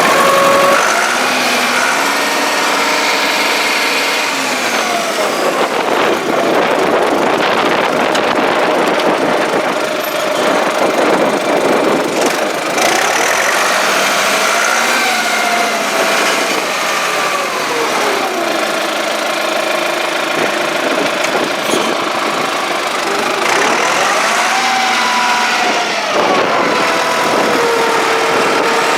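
John Deere 5500 tractor's diesel engine running, revved up and let back down to idle three times, holding the higher speed for a few seconds each time.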